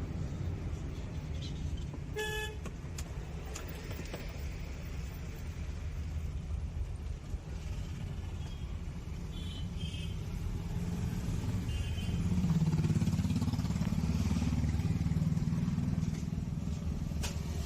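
Highway traffic noise with a steady low rumble of engines and tyres. A vehicle horn sounds once, briefly, about two seconds in, and there are a few short high beeps later. The low engine rumble grows louder from about twelve seconds for a few seconds, as a heavier vehicle runs close by.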